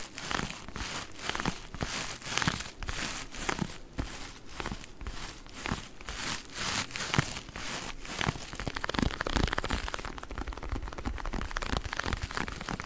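Plastic-wrapped pack of sponges being squeezed and crinkled in quick strokes, about two or three a second. About eight seconds in it turns into a denser, finer crackling.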